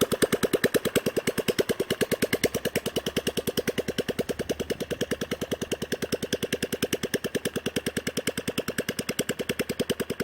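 Predator 420cc single-cylinder OHV gas engine running at low speed, a steady rapid thudding of about ten firing pulses a second, a little softer near the middle.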